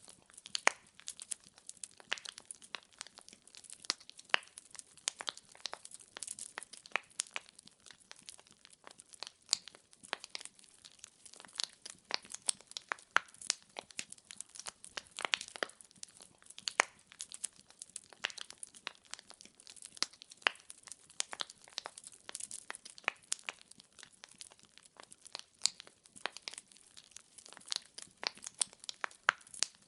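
Burning firewood crackling: a constant irregular patter of sharp snaps and pops over a faint hiss of flame.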